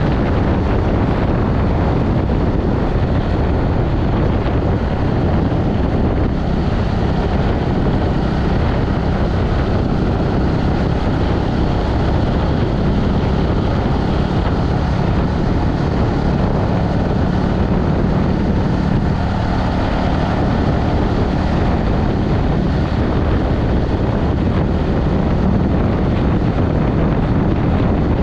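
Motorcycle engine running steadily while riding, with heavy wind noise on the microphone.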